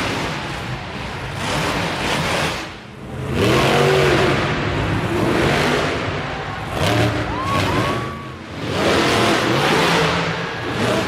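Monster truck engine revving hard in repeated bursts, the pitch climbing and falling and the loudness swelling and dropping every couple of seconds.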